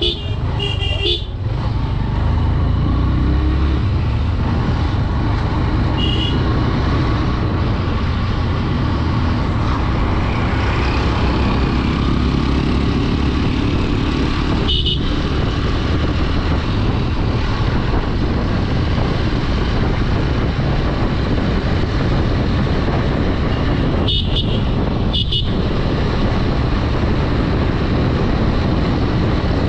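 Honda Dream 110 motorcycle being ridden along a road: a steady rumble of engine and wind on the microphone, with short high horn beeps near the start, around six and fifteen seconds in, and twice more about twenty-five seconds in.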